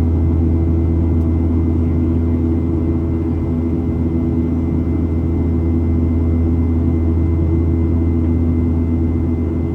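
Steady low cabin drone of a Boeing 737-700, its engines and airflow heard from inside, with a few faint steady tones over it and no change in pitch or level.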